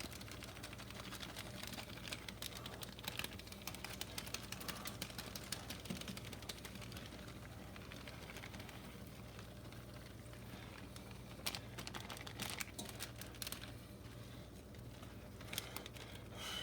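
Faint, irregular light ticking and rustling of shredded cheese being sprinkled by hand over baked potatoes on a hot tray, over a steady low hum.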